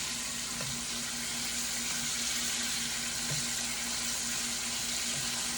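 Chicken wings frying in hot oil in a pan: a steady sizzle, with a steady low hum underneath.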